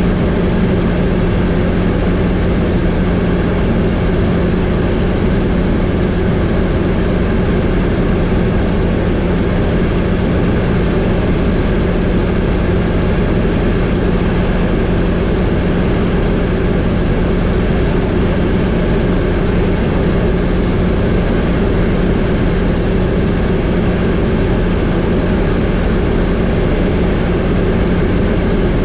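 Helicopter in flight: a loud, steady drone of engine and rotor with a constant low hum, unchanging throughout.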